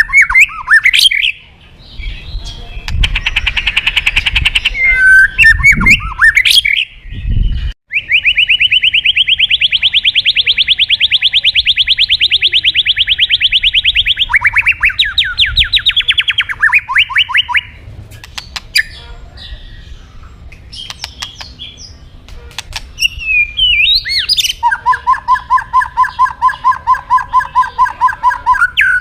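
White-rumped shama (murai batu) singing hard, a challenge song meant to call a rival: varied whistled phrases, then a long fast trill lasting several seconds and a run of quick sweeping notes, and near the end a two-note phrase repeated rapidly over and over.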